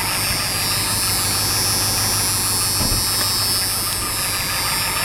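1992 Ford F350's turbo diesel engine idling steadily: a low hum with an even high hiss over it.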